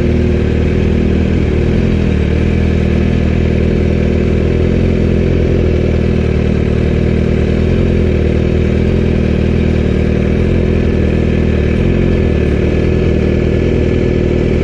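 750 sport bike's engine running steadily while riding, heard close up from the bike.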